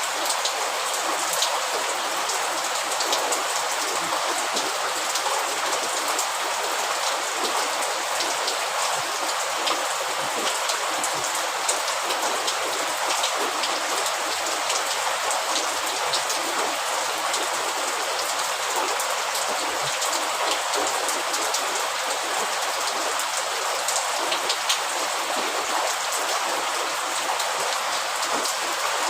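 Steady rain falling, with a dense hiss and scattered sharp drop ticks.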